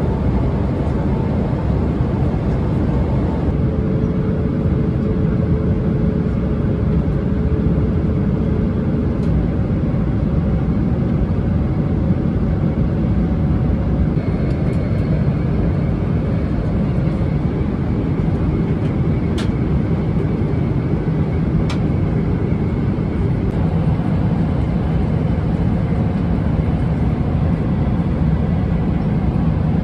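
Steady low roar of a Boeing 777-300ER airliner heard from inside the cabin in flight, with faint hums that shift in pitch and two light clicks about two seconds apart near the middle.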